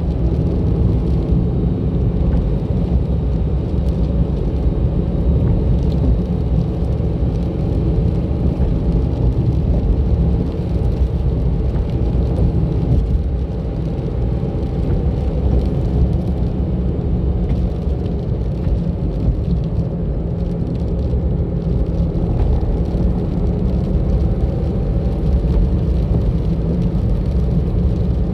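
A car driving on a road, with a steady low rumble of engine and road noise and slight shifts in pitch as its speed changes.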